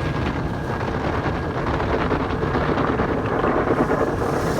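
Steady rushing and rumbling of car wash machinery at work.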